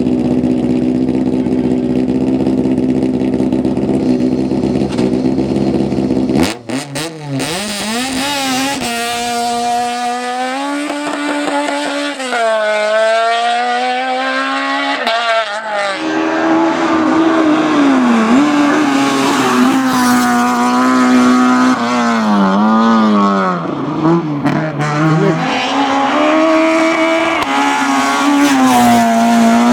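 Citroën AX competition car engine. It holds a steady high note at first, then after an abrupt change about six seconds in it revs hard, the pitch climbing and dropping again and again through gear changes and lifts.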